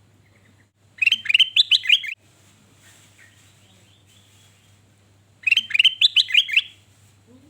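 Male kutilang emas bulbul singing two short, loud song phrases, each a quick run of six or seven bright notes, the first about a second in and the second near six seconds in.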